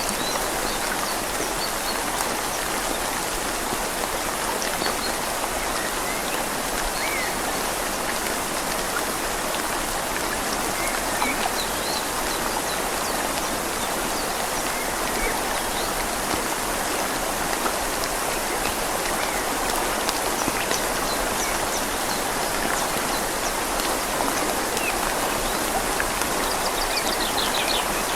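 Steady rain falling on leaves over the even rush of a flowing river, with a few faint bird chirps scattered through and a brief run of them near the end.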